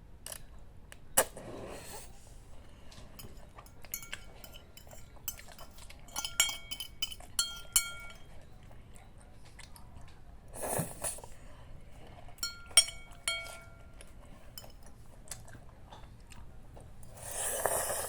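Close-up eating of instant noodles: a utensil clinking against the bowl with short ringing tones in two clusters, plus chewing and two noisy slurps, one about 11 seconds in and a longer one near the end.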